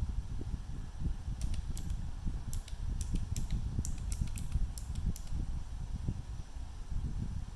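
Small, sharp clicks and light taps, about a dozen between roughly one and a half and five seconds in, from small repair tools working on a phone's metal and plastic parts, over a steady low rumble.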